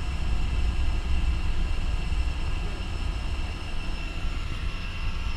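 Light aircraft's piston engine and propeller running steadily at low, taxiing power, heard from inside the cabin as a constant low drone with a faint high whine.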